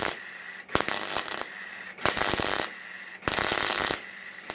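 Electric arc welder stitch-welding an exhaust pipe: the arc crackles in short bursts of about half a second to a second, with brief pauses between them, three or four in all.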